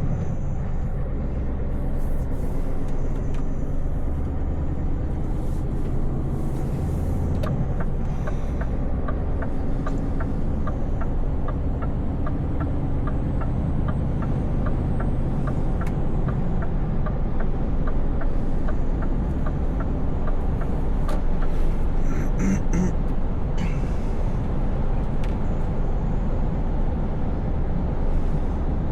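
Scania S580 truck's V8 diesel running steadily on the move. For about ten seconds in the middle there is a regular light ticking, roughly three ticks a second.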